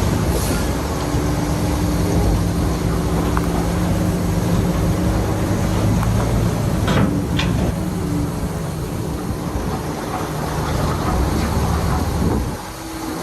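Heavy diesel engine of earthmoving machinery running steadily, with two short clanks about seven seconds in. The engine eases off near the end.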